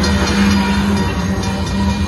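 Gravel hopper cars of a freight train rolling steadily through a grade crossing: steel wheels on the rails making a loud, continuous rumble with a steady low hum.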